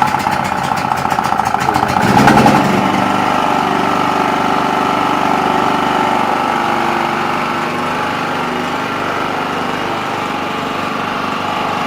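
Small portable 2.5 kW gasoline generator engine running steadily just after an electric start, still on choke, with a brief swell in level about two seconds in.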